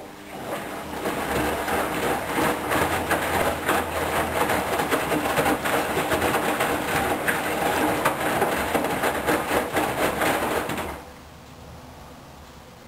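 Hoover DYN 10124DP washing machine in its rinse: the drum turns for about ten seconds with water and laundry sloshing and a low motor hum under it, then stops abruptly.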